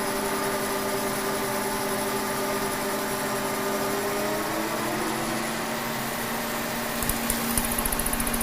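K&T 2HL horizontal milling machine, rigged as a lathe, running steadily with a hum of several steady tones. One tone drops away about halfway through, and near the end a fast, even rattling starts.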